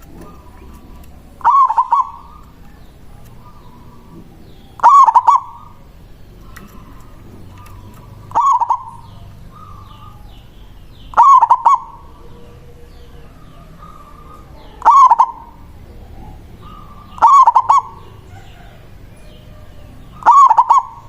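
Zebra dove (Indonesian local perkutut) cooing: a short, loud, quick coo phrase repeated seven times, about every three seconds. This is the 'manggung' song used as a lure to call in rival doves.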